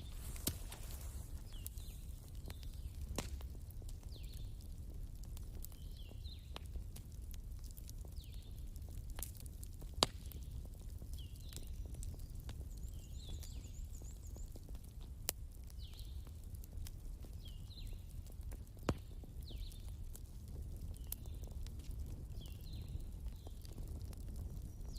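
Wood fire crackling: sharp pops every few seconds, the loudest about ten seconds in, over a low steady rumble. Short high chirps repeat every second or two behind it.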